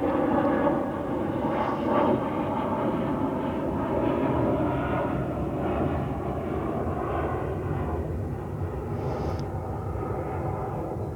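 A steady engine drone with a faint hum of tones, easing slightly toward the end.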